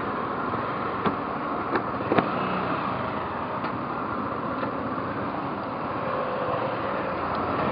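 Steady motorcycle riding noise, engine and road noise mixed, with a few sharp ticks about one to two and a half seconds in.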